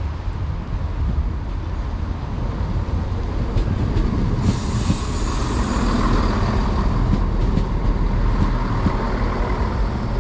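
Two-car Class 170 Turbostar diesel multiple unit pulling into the platform: a steady low diesel and wheel rumble that grows a little louder. A hiss joins about four and a half seconds in.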